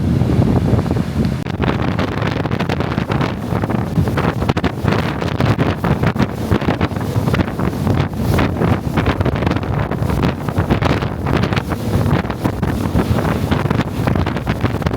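Wind buffeting the microphone on a jet boat running at speed, over the rush of water and the boat's drive.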